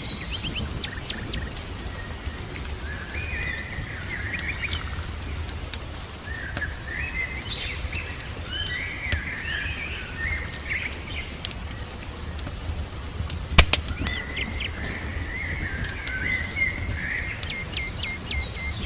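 Songbirds chirping and trilling over a steady low rumble, with scattered crackles and pops from a wood fire; one sharp loud pop comes about two-thirds of the way through.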